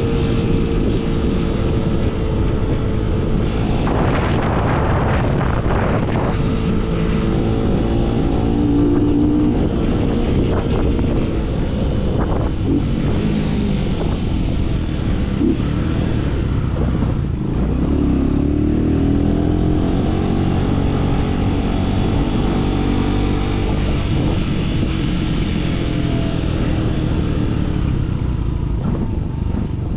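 Yamaha MT-07's parallel-twin engine through an aftermarket full-system exhaust, running under way. Its pitch rises and falls as the bike accelerates and changes gear, with a clear rise past the middle.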